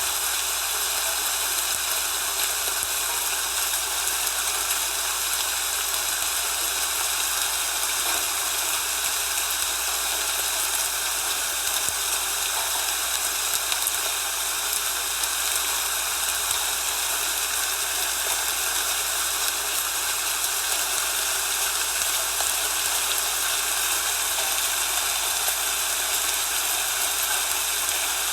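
A steady, unchanging hiss like heavy rain or rushing water, an even wash of noise with no separate drops, knocks or voices.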